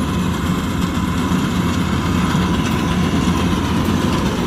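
Kubota DC-105X combine harvester's diesel engine running steadily under a faint steady whine.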